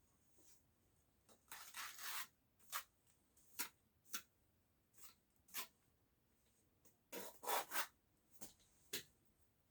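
A hand tool scraping in short, irregular strokes, about a dozen in all, with longer runs of scraping about two seconds in and again past seven seconds, typical of masonry work on brick and mortar.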